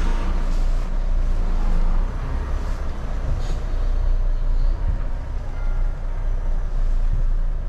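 Heavy goods truck's diesel engine running steadily at low revs, heard from inside the cab during a slow manoeuvre, with a couple of brief faint hisses about a third of the way in.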